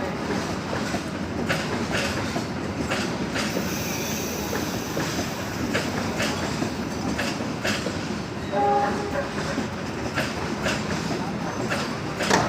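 Passenger train rolling into a station: a steady rumble with wheels clacking over the rail joints, and a brief pitched tone about three-quarters of the way through.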